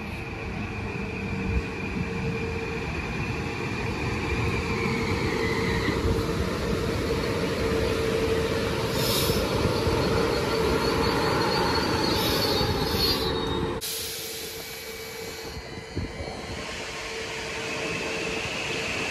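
Electric multiple-unit commuter train pulling into a station: its running whine falls in pitch as it slows, and high-pitched wheel and brake squeal comes through around the middle. About fourteen seconds in the sound drops sharply, leaving a quieter steady hum.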